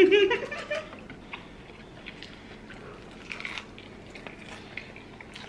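Close-miked biting and chewing of crispy fried chicken, with scattered small crunches and clicks. A brief voice is heard right at the start.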